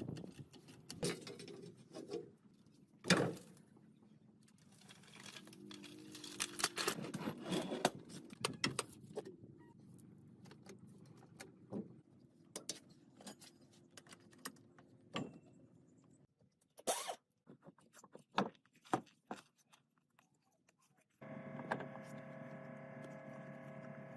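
Scattered clinks and knocks of tools and parts being handled, with one sharp knock about three seconds in. Near the end a steady hum from a machine starts abruptly and keeps running.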